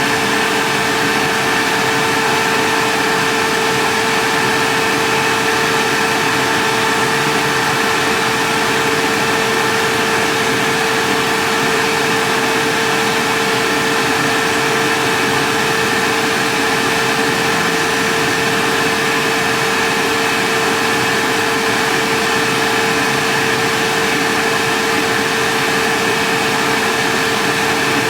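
A 2017 Camaro's electric radiator cooling fans and engine running: a steady whir with a constant high whine. The fans run while the temperature gauge reads zero, a fault the owner puts down to the thermostat or a sensor.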